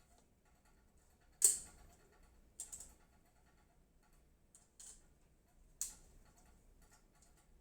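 Sharp plastic-and-metal clicks and knocks as a hard drive is fitted into a toolless drive bracket, about five in all, the loudest about one and a half seconds in.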